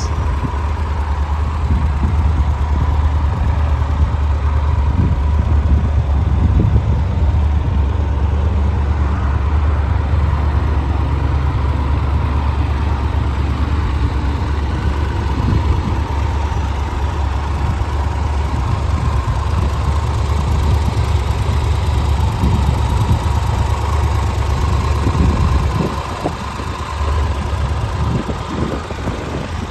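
Triumph Tiger 1200 Rally Explorer's inline three-cylinder engine idling steadily just after being started, a little quieter for the last few seconds.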